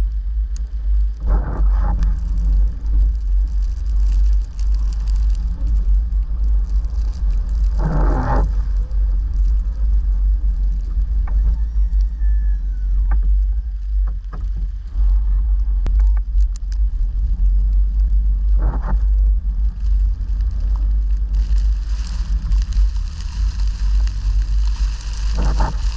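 A steady low rumble, with four brief scraping sounds spread through it: one about a second and a half in, one about eight seconds in, one about nineteen seconds in and one near the end.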